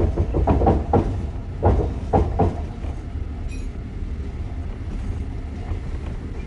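Passenger train carriage running along the rails, a steady low rumble heard from inside the car, with a brief high squeak near the middle.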